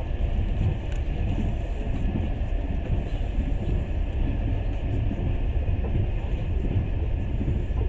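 Passenger train running at speed, a steady low rumble of wheels on rails heard from inside the carriage.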